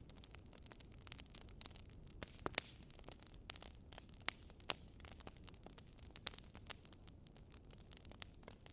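Wood fire crackling: irregular sharp pops and snaps, a few of them louder, over a low steady rumble of burning firewood.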